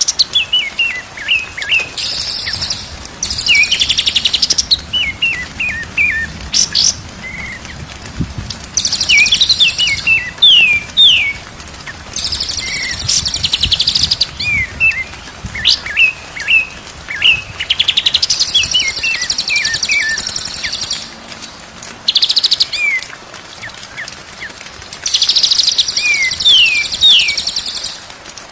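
White-rumped shama (murai batu) song: loud, varied phrases of short whistled notes and quick pitch sweeps, broken every few seconds by dense, high-pitched trills.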